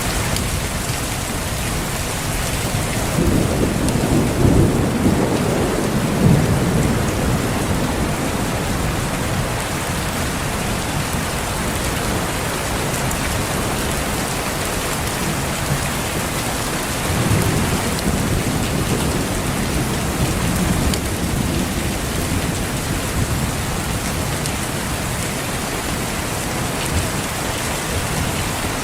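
Steady rain falling, with two low rolls of thunder, the first about three seconds in and the second just past halfway.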